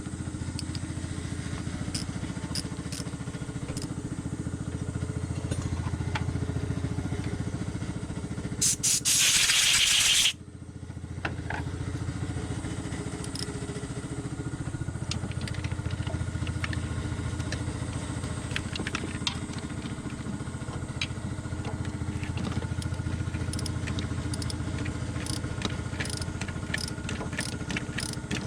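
Mitsubishi Pajero's 6G74 3.5-litre V6 idling steadily, with light ticking throughout. A loud hiss cuts in for about a second and a half near the middle and stops suddenly.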